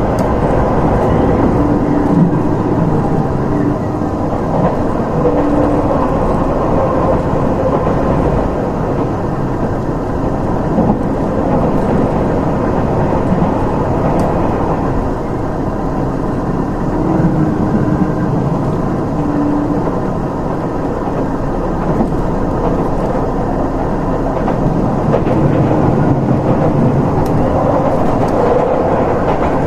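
Inside a running Nanpu diesel limited express train: a steady rumble of wheels on the rails and the underfloor diesel engines, with short engine hums now and then.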